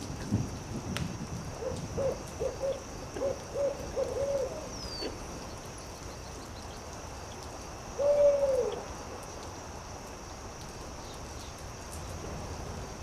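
Owl hooting: a quick run of about eight short hoots, then a few seconds later one longer hoot that falls in pitch at the end. Underneath is a steady background noise with a few sharp crackles.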